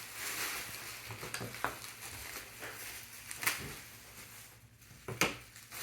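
Plastic bubble wrap rustling and crinkling as it is handled and wrapped around a part, with a few sharp crackles.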